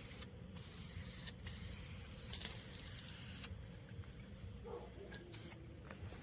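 Aerosol spray-paint can hissing in three bursts, with short breaks between them, then stopping about halfway through.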